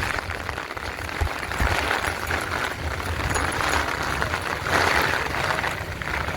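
Heavy rain falling in strong wind, a steady hiss that swells with the gusts, twice more strongly, with wind buffeting the microphone in low rumbles.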